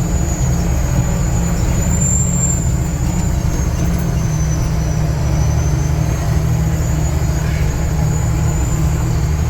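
Logging truck's diesel engine running steadily under load as it drives through mud, a dense low drone with a thin high whine wavering above it.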